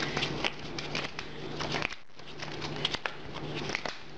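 Trading cards being handled and laid on a table: light, scattered clicks and taps over a steady low hum. The sound drops out briefly about two seconds in.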